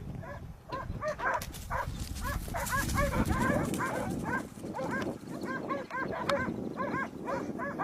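Dogs barking in rapid, high-pitched yelping barks, several a second and overlapping, as they bay a wild boar. A low rumbling noise runs beneath the barking.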